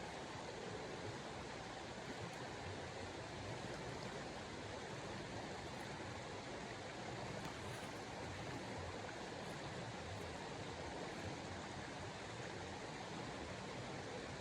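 A steady, even rushing noise with no distinct sounds standing out of it.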